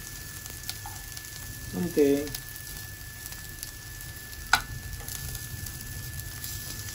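Maggi noodle and potato patties shallow-frying in a little oil in a nonstick pan, a steady sizzle. About four and a half seconds in, the steel spatula gives one sharp tap against the pan.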